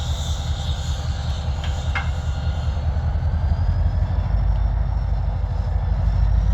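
Steady low vehicle rumble, with two short clicks about two seconds in.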